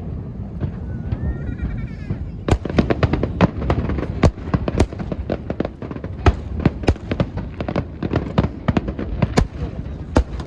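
Aerial fireworks bursting: rapid sharp cracks and bangs over a low rumble, sparse at first and then a dense run of crackling from about two and a half seconds in.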